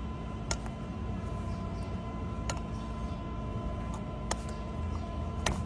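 Hoof knife cutting into a cow's hoof sole: five sharp clicks at irregular intervals over a steady low hum.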